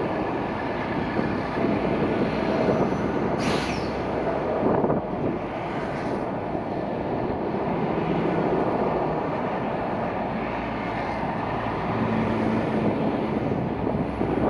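Intermodal freight train running along the line: a steady rumble of wheels and wagons, with a sharp click about three and a half seconds in.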